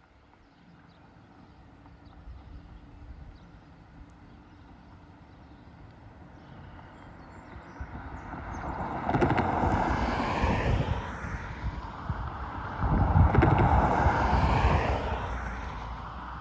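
Amtrak passenger train approaching at high speed and passing, its rumble building slowly and then two loud rushing swells about four seconds apart, each dropping in pitch as it goes by.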